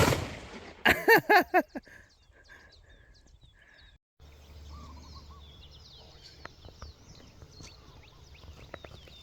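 A sharp, loud burst with a fading tail at the start, then a short bit of voice. After that comes open-air background with small birds chirping and whistling.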